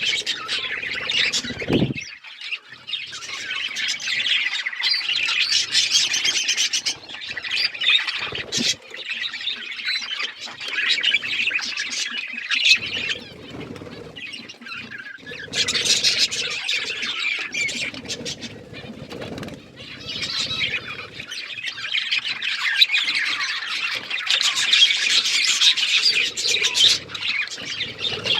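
A flock of budgerigars chattering and squawking nonstop, the warbling chatter swelling and fading, with occasional low thumps mixed in.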